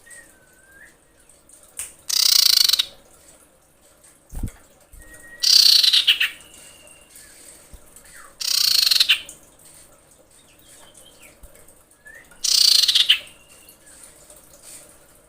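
Female common iora giving four loud, harsh rasping screams roughly every three to four seconds, with soft short whistled notes between them: the call of a female in breeding condition summoning a male.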